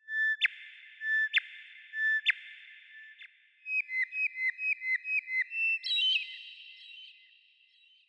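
Bird whistling pure-toned notes: three spaced notes, each starting with a sharp click, then a quick run of about ten short notes, and a higher note about six seconds in.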